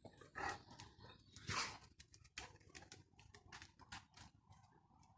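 A dog making faint short noises close by: two louder bursts in the first two seconds, then a run of light clicks and soft rustling.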